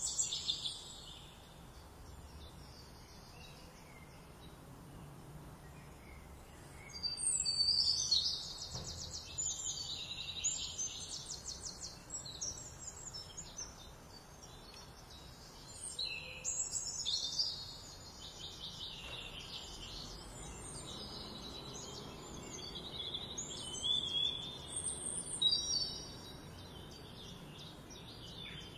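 Songbirds chirping and singing in repeated bouts of quick, high trills, the loudest starting about seven seconds in, over a faint steady outdoor hiss.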